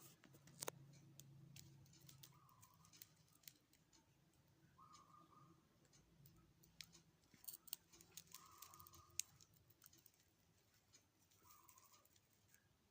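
Near silence: faint scattered clicks, and a faint short tone repeating about every two and a half to three seconds.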